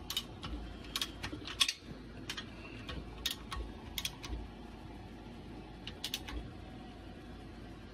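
Irregular light clicks and taps of handling around a bare engine block, a dozen or so scattered over the first six seconds and then stopping.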